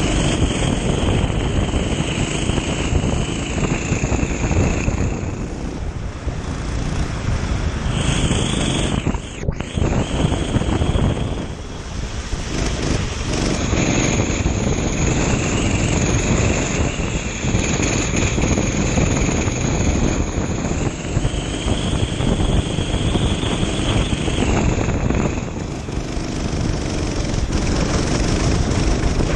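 Kart engine running at race speed, its pitch climbing and falling as it accelerates down straights and lifts for corners, under a heavy rush of noise.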